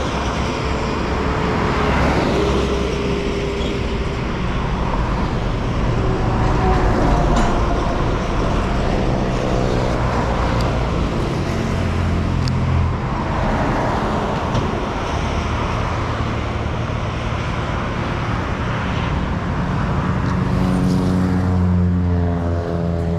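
A vehicle's engine running on the move, its pitch rising and falling with speed, under a steady rush of wind and road noise.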